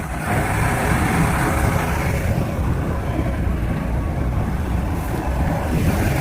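Tornado power boat's engine running steadily with a deep, even rumble.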